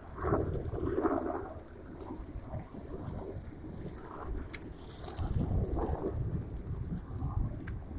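Bicycle being ridden, rattling and clicking throughout, with a low rumble that swells from about five to seven seconds in.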